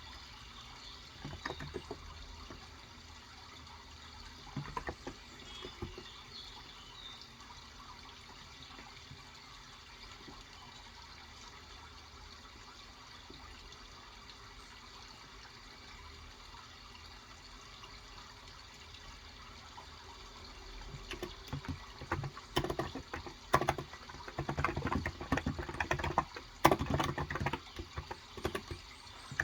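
Steady trickling water runs throughout. A few scattered keystrokes fall in the first seconds, and from about two-thirds of the way in come dense runs of typing on a Cox Endeavor 35g electro-capacitive tenkeyless keyboard.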